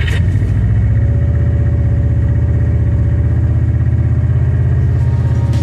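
Subaru WRX STI's turbocharged flat-four engine running steadily at low revs, with an even low pulsing beat.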